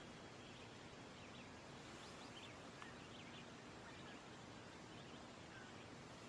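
Faint outdoor ambience: a steady low hiss with a few faint, short bird chirps scattered through it.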